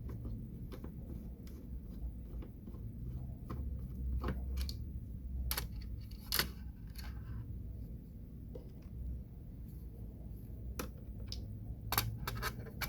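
Scattered light clicks and taps of a screwdriver and small screws being worked out of the computer's fan assembly, over a low steady hum.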